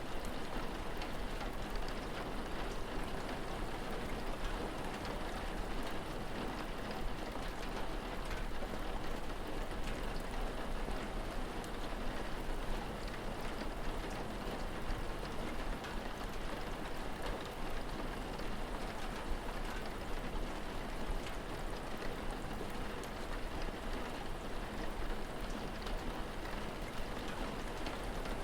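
Steady rain falling, an even hiss with scattered faint drop ticks, over a constant low rumble.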